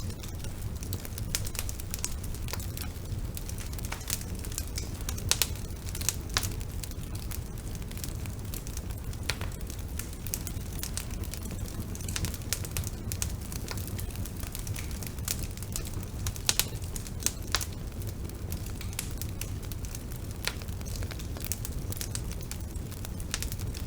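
Bonfire burning: a steady low rumble of flames with frequent sharp crackles and pops from the burning wood, scattered irregularly.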